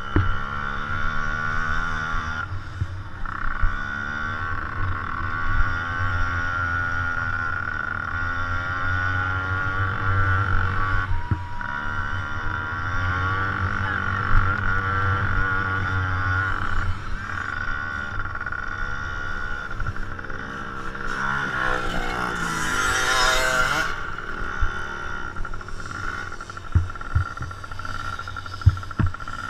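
Motocross dirt bike engines revving on the track, their pitch rising and falling over and over as they accelerate and back off, with a steady high whine underneath. Near the end one engine revs up louder and higher.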